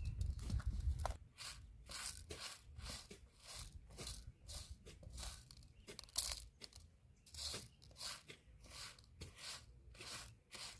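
Repeated rasping, scraping strokes, about two to three a second, with a low rumble in the first second.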